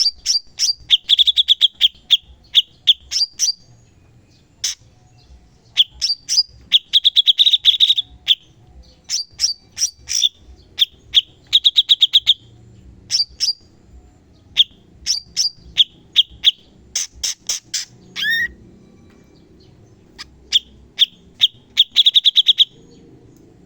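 Cucak cungkok singing in repeated bursts of sharp chips and fast, high rattling trills, each burst a second or two long with short pauses between.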